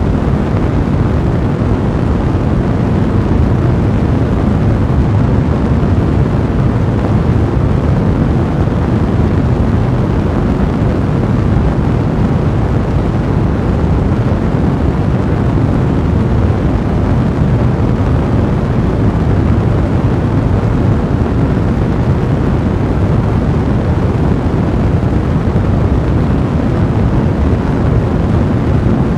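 A large fire blazing, a steady low rumble of burning with no distinct crackles standing out.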